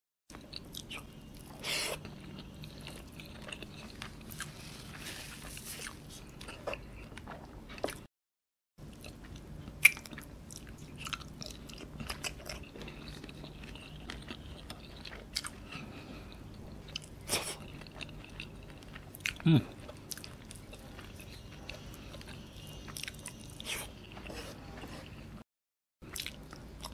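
Close-miked chewing of a person eating rice and kerutuk curry meat by hand, with wet mouth sounds and frequent short sharp smacks and clicks.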